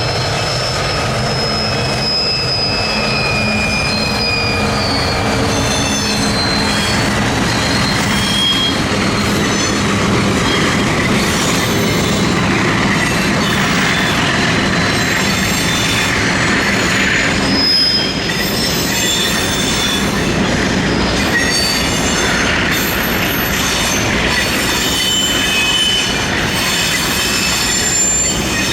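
Train wagons rolling past at close range, a steady loud rumble with wheel flanges squealing in short high-pitched bursts throughout.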